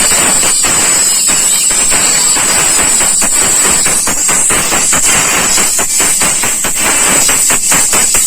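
A song playing loud through a bare tweeter driven by an amplifier: thin and all treble with almost no bass, with a steady beat of sharp hits. The tweeter is sounding again, which shows it is working.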